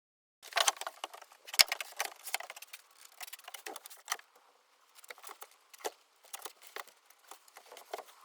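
Irregular light clicks, knocks and jangling rattles, like hand tools, hardware and wood being handled. The loudest click comes about a second and a half in, and the sounds thin to scattered ticks in the second half.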